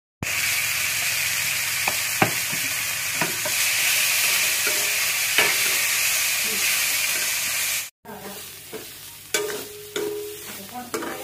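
Chopped green vegetables stir-fried in a hot kadhai: a loud, steady sizzle, with a metal ladle knocking and scraping against the pan a few times. The sizzle breaks off near eight seconds in and comes back quieter, with more ladle scrapes.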